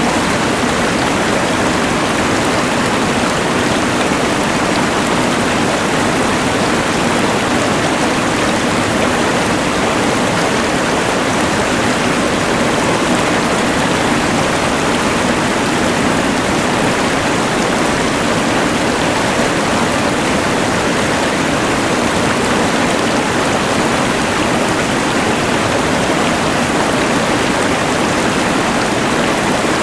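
Rushing mountain river blended with the steady hiss of a LectroFan white noise machine, making one even, unbroken wash of noise that does not change.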